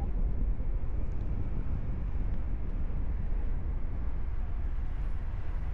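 Steady wind buffeting the microphone of a paraglider in flight: a low, even rumble with no distinct events.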